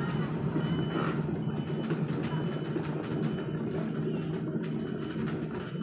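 Sumitomo SH 75 excavator's diesel engine running steadily under work, with a continuous rattling clatter. A high warning beeper repeats through the first half and fades out.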